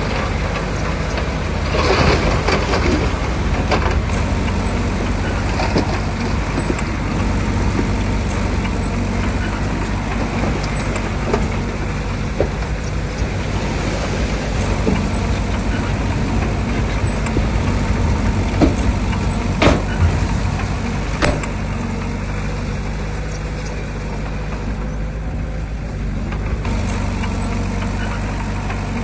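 Heavy diesel engine of earthmoving machinery running steadily, with a few sharp knocks, the loudest about two-thirds of the way through.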